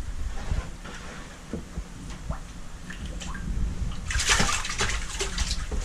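Water sloshing and splashing, with a louder splash about four seconds in.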